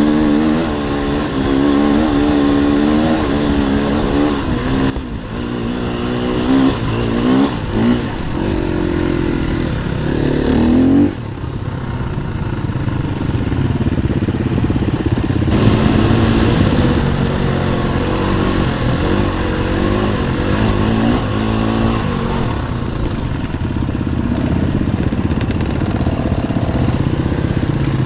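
Enduro dirt bike engine being ridden hard, its pitch rising and falling over and over as the throttle is opened and shut. The engine eases off about eleven seconds in, then runs on under steady throttle.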